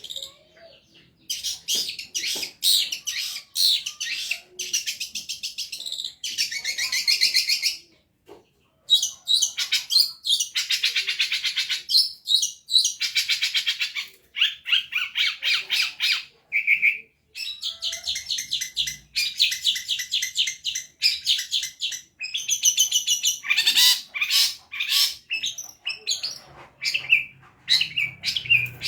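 Long-tailed shrike (cendet) singing vigorously: fast runs of rapidly repeated high notes in bursts of a second or two, separated by short pauses.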